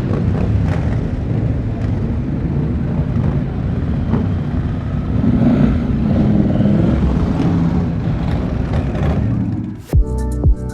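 Motorcycle engines running in a steady, rumbling mass of vehicle noise. Near the end it cuts off suddenly and electronic music with a sharp beat begins.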